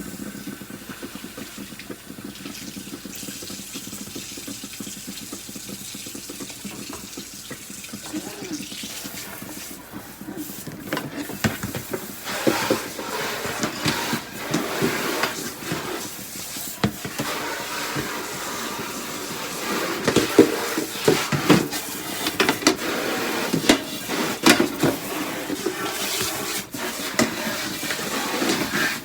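Kitchen tap running into a sink while dishes are washed by hand. From about ten seconds in, plates and cups knock and clink against each other and the sink over the water.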